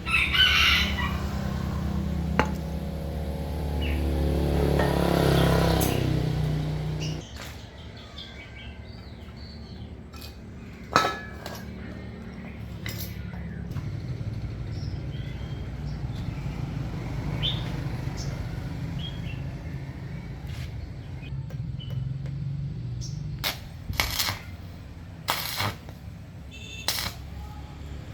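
A steady low machine hum that drops away to a quieter hum about seven seconds in, with scattered clicks and knocks; one sharp knock stands out about eleven seconds in.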